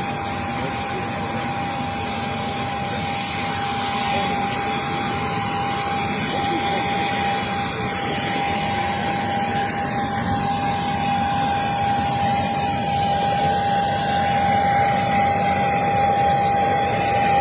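Steady jet engine noise heard inside a private jet's cabin: an even rushing noise with a steady whine held at one pitch.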